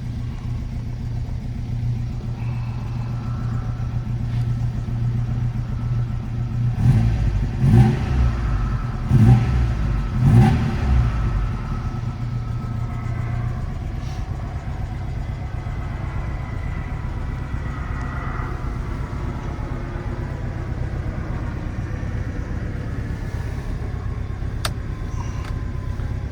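1967 Alfa Romeo GT 1300 Junior's twin-cam four-cylinder engine idling steadily, blipped three times about seven to eleven seconds in, each rev rising and falling quickly before it settles back to idle.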